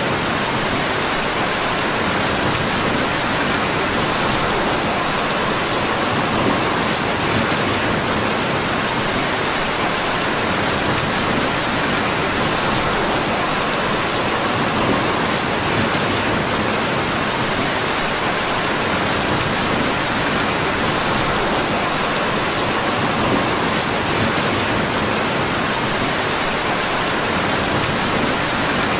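Steady, heavy rain: a dense, even hiss that does not change.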